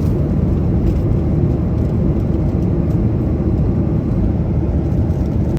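Steady rumble of an airliner cabin in flight: engine and air noise heard from inside the plane.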